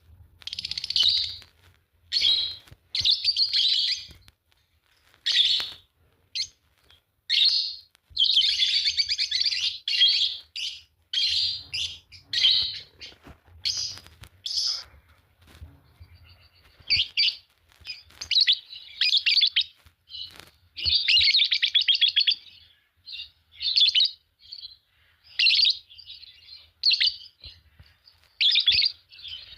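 A pair of Fischer's lovebirds chirping and chattering: shrill chirps in quick bursts, broken by short pauses, with a few longer runs of dense twittering.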